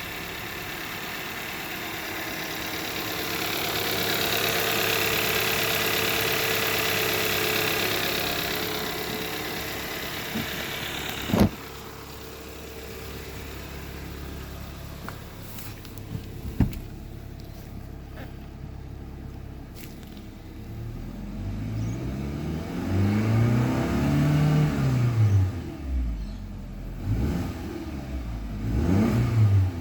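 2015 Hyundai Sonata's 2.0-litre turbocharged four-cylinder engine running on test: a steady noisy run for the first third, a sharp click, a quieter steady idle, then several quick revs up and back down near the end. The engine is running cleanly, which the seller takes as the engine testing good.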